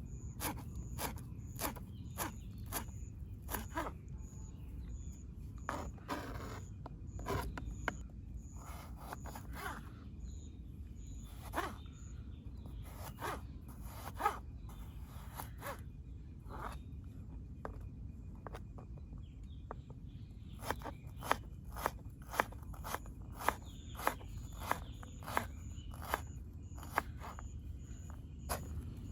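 Kitchen knife cutting vegetables on a board: scattered knocks and scrapes, then a steady run of chops about two a second in the last third. A faint high chirping repeats in the background.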